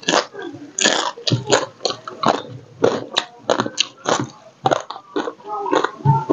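Close-miked chewing of a mouthful of rice and crab curry eaten by hand, with quick irregular lip-smacking clicks, several a second.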